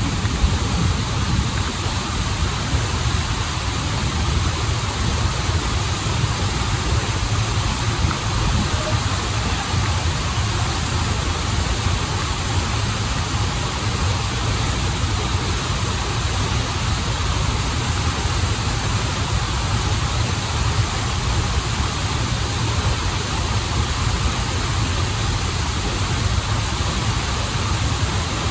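Waterfall and river stream running water: a steady, full rush that does not change.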